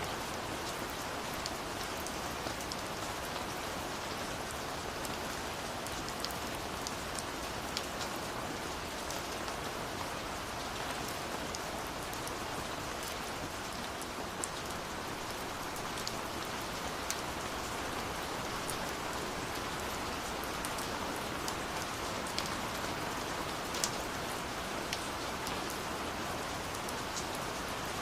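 Steady rush of falling water from a waterfall, with the scattered sharp crackles and pops of a burning wood fire over it, one pop louder near the end.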